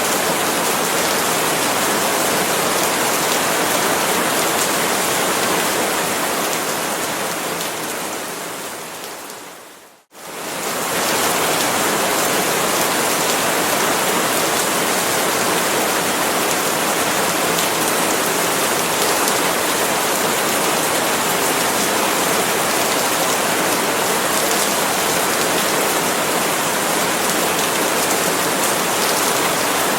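Steady rain falling on palm leaves, an even hiss. About ten seconds in it fades away over a few seconds to a moment of silence, then swells back within a second and carries on as before.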